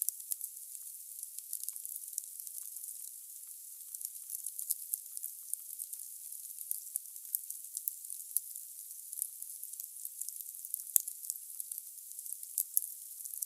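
Logs burning in a fireplace: a steady soft hiss of the fire with frequent, irregular sharp crackles and pops from the burning wood.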